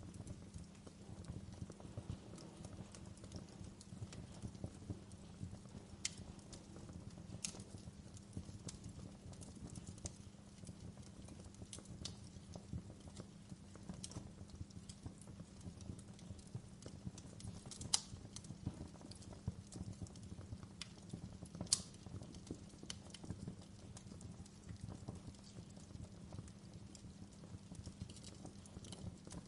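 Campfire burning with steady crackling over a low rumble, and a few sharper pops, the loudest about 18 and 22 seconds in.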